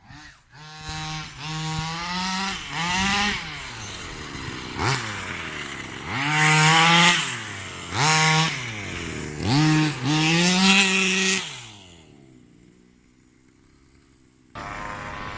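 Rovan Baja 45cc two-stroke engine of a 1/5-scale RC car, fitted with a 45cc side pipe, revving in repeated throttle bursts. Its pitch climbs and falls with each pull of the trigger, then it settles to a low idle near the end.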